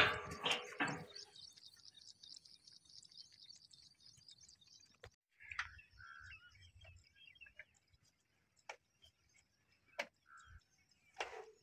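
Small birds chirping: a quick run of high chirps for the first few seconds, then a few lower chirps. It opens with a loud knock, and a few sharp clicks follow later.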